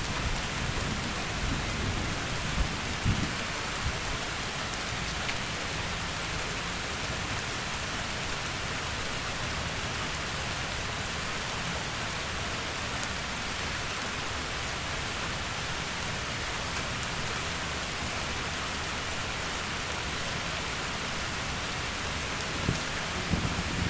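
Heavy rain falling steadily, with a low rumble of thunder dying away in the first few seconds and another beginning near the end.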